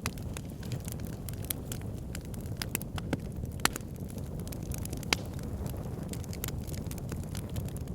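Wood fire in a backyard fire pit crackling, with many small irregular snaps and two sharper pops around the middle, over a steady low rumble.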